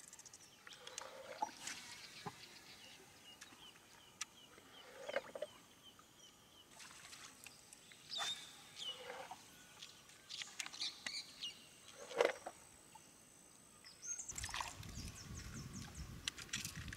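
Birds calling: scattered short high chirps and whistles mixed with lower, fuller calls, over a steady high thin tone through the middle. Near the end a low rumble comes in under the calls.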